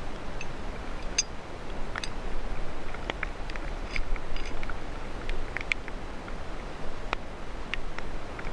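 Light rain: a steady hiss with many small drops ticking at irregular moments, likely on the canoe and the lake surface.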